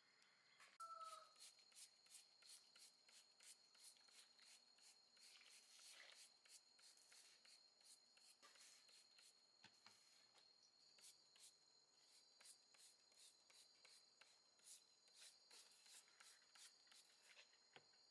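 Near silence: faint, irregular clicking, a few clicks a second, over a steady high-pitched whine, with a brief chirp about a second in.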